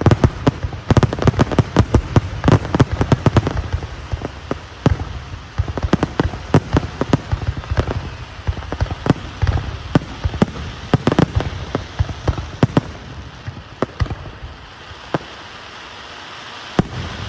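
Fireworks display: a dense, rapid barrage of bangs for the first few seconds, then scattered single booms that thin out, with one more bang near the end.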